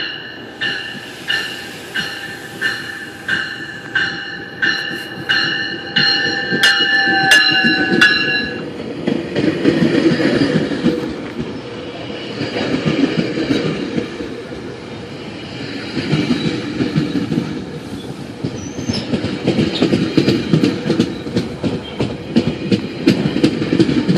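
A train passing close by. For the first eight seconds its wheels click over rail joints about every half second under a steady high-pitched wheel squeal. Then the squeal stops and the rumble of the passing cars takes over.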